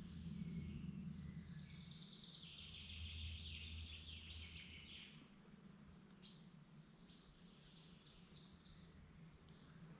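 Songbirds singing in woodland: a long phrase of rapid notes from a couple of seconds in, then a shorter run of about six repeated notes near the end. A faint low rumble lies under the first half.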